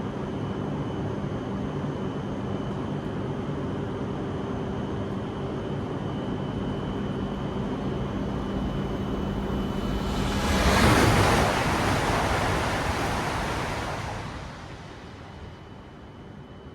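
Shinkansen bullet train passing at high speed: a rushing noise of air and wheels swells, peaks about eleven seconds in, then falls away quickly about three seconds later.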